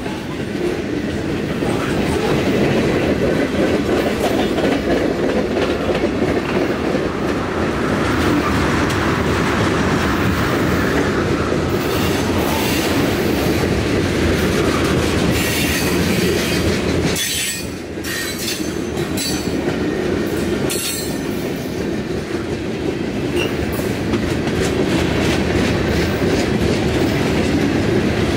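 Mixed freight train of boxcars, covered hoppers and tank cars rolling past at close range: a steady heavy rumble of steel wheels on rail, with harsher high-pitched metallic screeching and clanking in the middle stretch.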